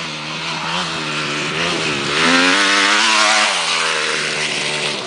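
Motocross bike engine revving, its pitch rising and falling several times, loudest a little past the middle.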